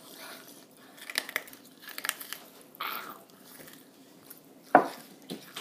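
Close-up crunchy chewing: teeth biting and grinding through something hard and brittle, with irregular cracks and one loud sharp crack near the end.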